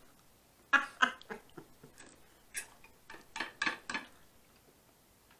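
Close-miked chewing of Caesar salad with croutons: a string of short, irregular crunches and wet mouth clicks with quiet gaps between them.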